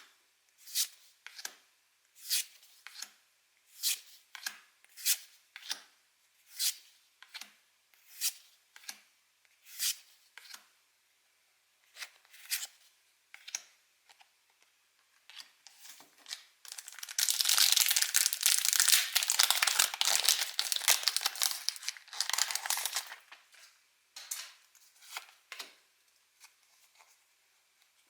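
Pokémon trading cards flicked over one at a time with sharp little snaps, about one every three-quarters of a second. Past the middle a foil booster pack wrapper is torn open with a loud crinkling rip lasting several seconds, and a few more card snaps follow.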